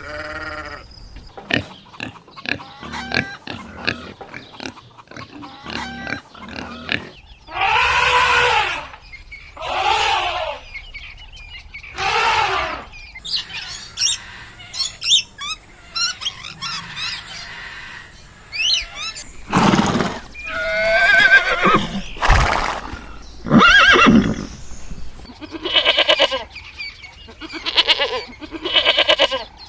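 A run of farm animal calls: a string of short grunts and clicks, then several drawn-out arching cries, faint chirping in the middle, and a series of loud, rapidly pulsed calls towards the end.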